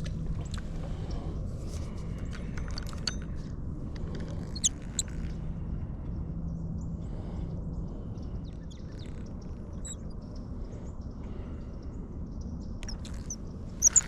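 Faint, scattered bird chirps over a steady low outdoor rumble, with a few soft clicks.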